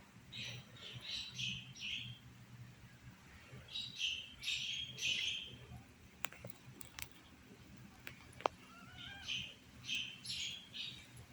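Newborn kittens mewing in thin, high squeaks, in three short bursts of calls, with a few sharp clicks in the quiet stretch between them.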